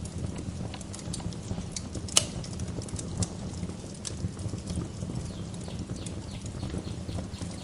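Wood fire crackling in a fireplace: irregular sharp pops and snaps over a steady low rumble of burning, with one louder pop about two seconds in.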